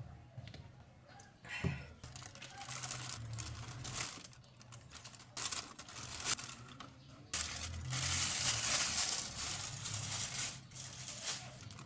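Crinkling and rustling of plastic packaging being handled, with a few sharp clicks and knocks in between. A longer, louder stretch of rustling comes in the second half.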